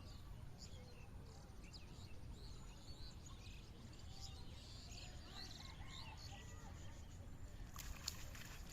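Outdoor ambience of small birds chirping here and there over a steady low rumble, with a short cluster of sharp clicks near the end.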